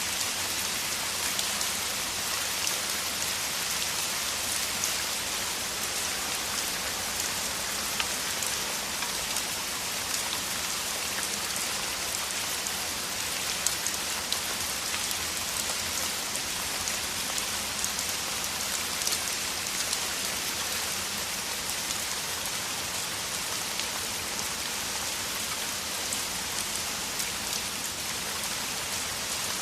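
Heavy rain falling steadily, a dense even hiss with many separate drop patters on the surface.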